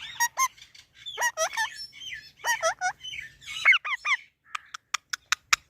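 A parrot calling: a run of short squawks and rising, honking calls, then a quick series of about seven sharp clicks near the end.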